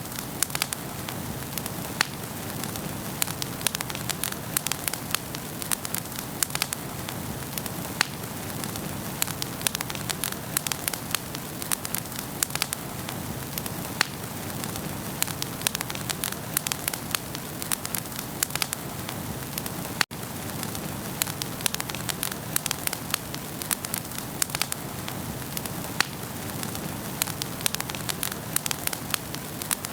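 Wood fire burning in a fireplace, crackling with frequent sharp pops and snaps over a steady hiss.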